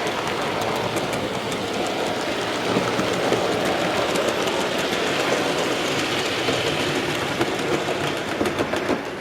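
Model train running on the layout's track: a steady rumble of wheels and motor with rapid fine clicks as the wheels pass over the rail joints.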